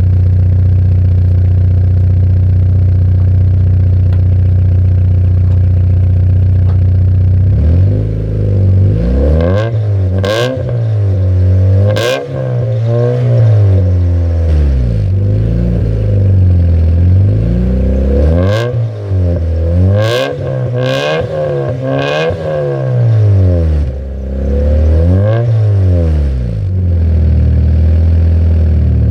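1999 Mitsubishi Eclipse GS four-cylinder engine with an aftermarket 'fart can' muffler exhaust, idling steadily, then revved up and let fall about six times before settling back to idle. A few sharp pops or cracks sound in among the revs.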